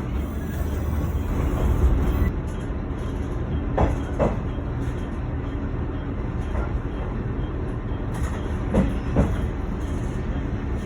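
Train running along the track with a steady low rumble. Twice it gives a pair of quick clicks as the wheels pass over rail joints.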